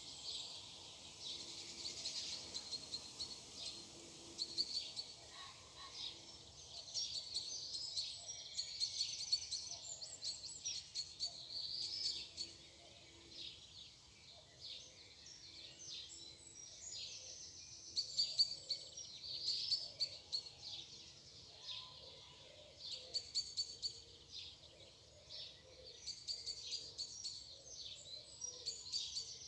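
Morning chorus of several songbirds: many overlapping chirps and fast trills, briefly thinning out about halfway through.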